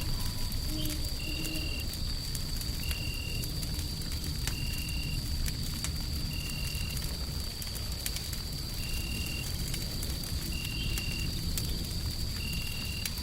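Crackling wood fire with irregular sharp pops over a steady low rumble of noise. A thin, steady high whine runs through it, and a short high beep-like tone repeats about every second and a half to two seconds.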